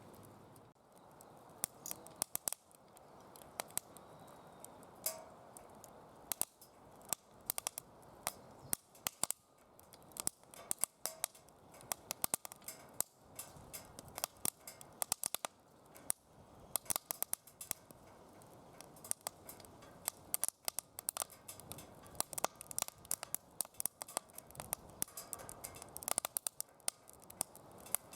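Wood fire crackling in a DOD Mecha-Moe Fire fire pit: many sharp, irregular pops and snaps over a soft steady hiss of flame, coming thicker in some stretches.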